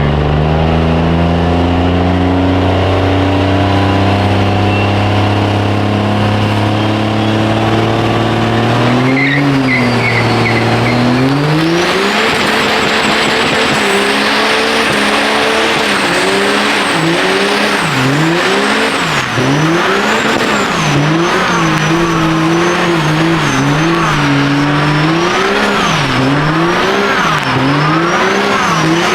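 Diesel truck doing a burnout: the engine is held at high revs and climbs slowly for several seconds. Then the tyres break loose with a loud hiss of spinning rubber, and the engine note surges up and down over and over as the throttle is worked.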